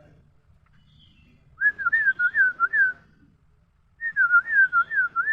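A clear whistled phrase of quick, wavy up-and-down notes, heard twice with a pause between.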